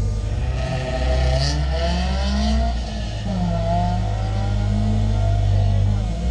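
Honda Accord Euro-R's K20A four-cylinder idling steadily, heard from inside its stripped, caged cabin, while another car's engine rises and falls in revs as it pulls away ahead.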